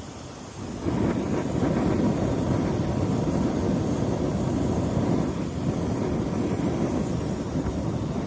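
Steady low rushing of water, a dense noise without any tone, which gets louder about a second in and then holds.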